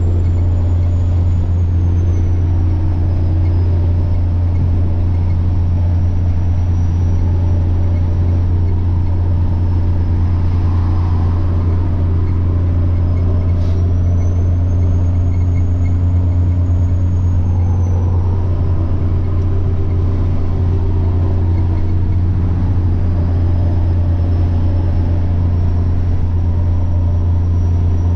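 Semi truck's diesel engine droning steadily under way, with a thin, high turbocharger whine that slowly rises and falls in pitch. A single short click about fourteen seconds in.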